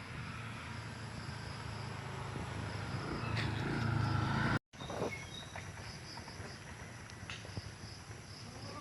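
Rural outdoor ambience with insects chirping in repeated high pulses over a low hum. The hum swells about halfway through, then everything cuts out abruptly for a moment before the chirping resumes with a few light clicks.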